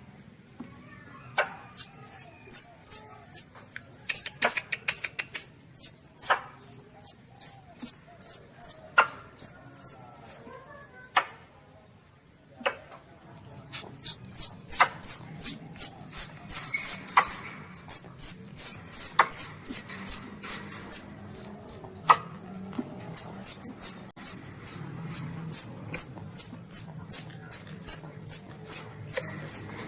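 Civet kitten (luwak) calling: long runs of short, high squeaks falling in pitch, about three a second, broken by a pause of a couple of seconds near the middle.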